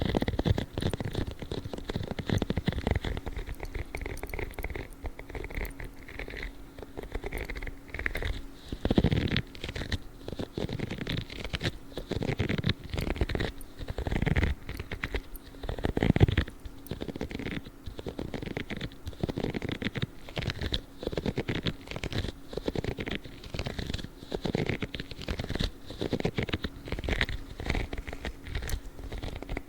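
Blue spiky gloves rubbing and scratching in an irregular run of short strokes, some louder than others.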